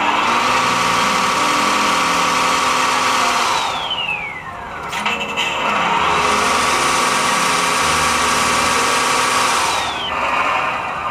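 Electric motor of a model truck's hydraulic pump whining. It winds down with a falling whine about four seconds in, starts up again a second later, and winds down again near the end, over a steady low drone.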